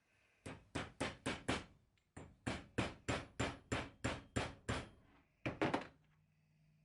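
A hammer striking metal in quick runs of sharp, ringing blows, about four a second: five blows, a short pause, ten more, then three close together near the end.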